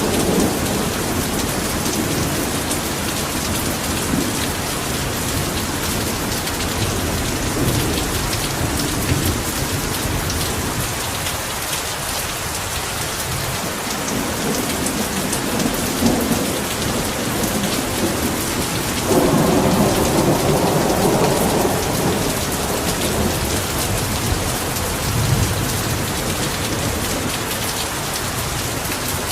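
Heavy rain falling steadily, with low rumbles of thunder rolling underneath. A louder rumble starts about two-thirds of the way through and lasts a few seconds.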